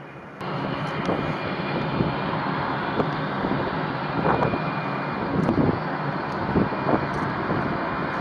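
Jet aircraft engine noise: a steady rushing noise with scattered crackles and wind on the microphone. It cuts in abruptly about half a second in.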